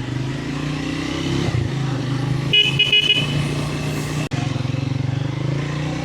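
Motorcycle engine running steadily, with a horn giving a quick series of short beeps about two and a half seconds in. The sound breaks off for an instant about four seconds in, then the engine carries on.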